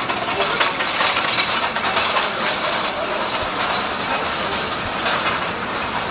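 Busy street noise: a steady clattering din with hiss.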